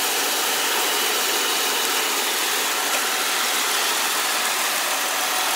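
2003 Ford Explorer XLT's 4.0-litre V6 idling steadily with the air conditioning on, running smooth and very quiet with no knocks.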